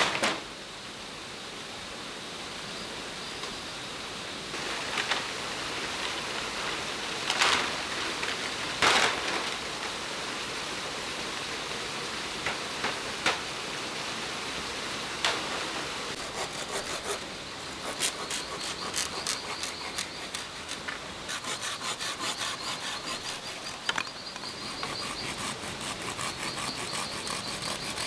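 Wood being sawn by hand: a few sharp knocks first, then quick, regular back-and-forth strokes over the last third, heard over a steady hiss.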